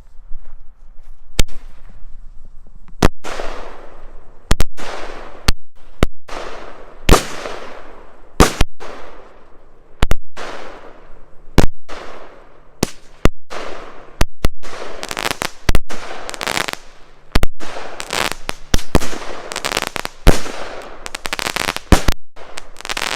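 A 16-shot firework cake firing: a string of sharp bangs, about one a second, each trailing off into a fading rush, coming faster and overlapping in the second half.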